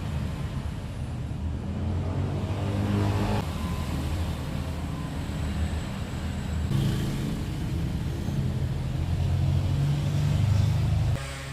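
Road traffic: car and motorbike engines running and passing, a steady low rumble that changes abruptly a few times.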